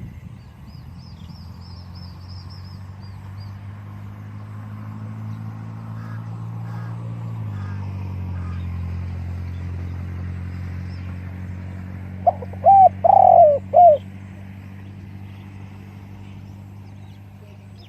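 Spotted dove cooing: one short, loud phrase of about four notes, some way past the middle. Under it runs a steady low hum that drops in pitch partway through, with faint high chirps of small birds near the start.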